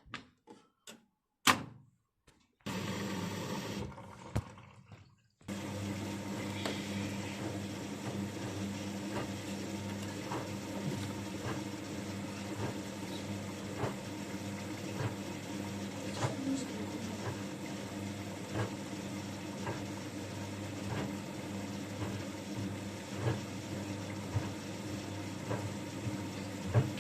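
Bosch Avantixx 6 washing machine starting up: a few clicks, then a steady humming rush of water being drawn in. It breaks off briefly about four to five seconds in and then runs on, with faint regular ticks about once a second.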